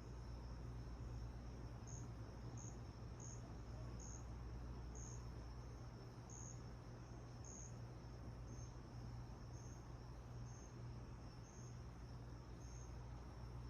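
A chirping insect: short high chirps repeating about once a second, over a faint steady low hum.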